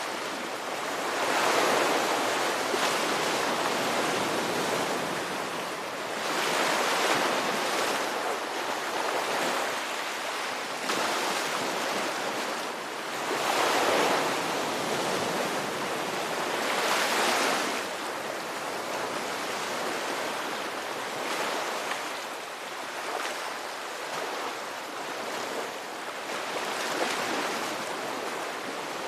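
Ocean waves breaking and washing ashore, surging up every few seconds, with the biggest breakers in the first two-thirds and a calmer, steadier wash after that.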